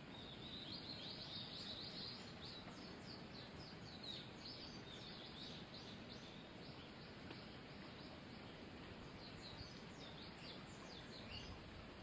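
Faint high chirping of small birds: many short, quickly falling notes in loose runs, over a steady low background noise.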